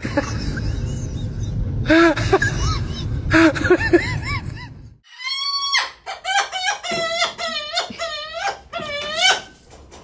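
A dog whining and yelping in high cries that rise and fall. After a short break about halfway through comes one long falling cry, then a quick run of short repeated yelps.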